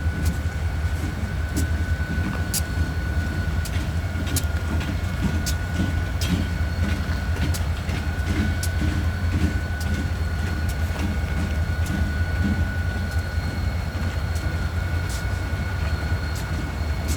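A train rolling past with a steady low rumble, wheels clicking and knocking over the rail joints, and a steady high whine over it.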